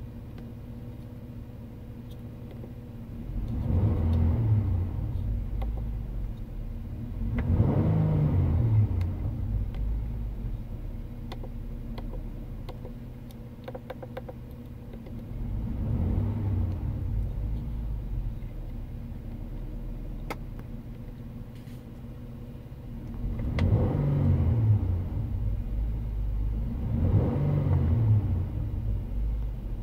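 2018 Honda Odyssey's 3.5-litre V6 idling steadily and being revved five times. Each rev rises and falls back to idle within a second or two; the third rev is lighter than the others.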